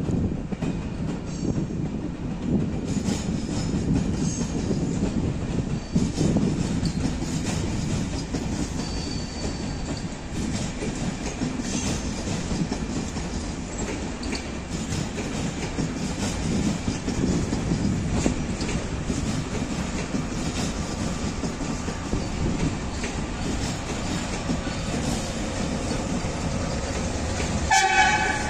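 Passenger train of coaches and an electric locomotive rolling past: a steady low rumble of wheels with many clicks over rail joints and points. A brief high-pitched tone sounds near the end.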